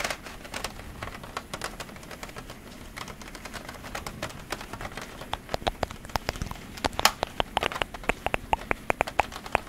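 Heavy rain falling steadily, with many sharp irregular ticks and taps on top that come more often and louder from about halfway through.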